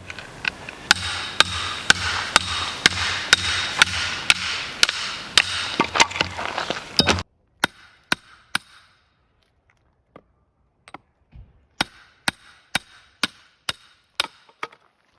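Firewood being split with hammer blows: sharp knocks on wood, about two a second, at first over a steady rushing background that cuts off suddenly about seven seconds in, then in two sparser runs.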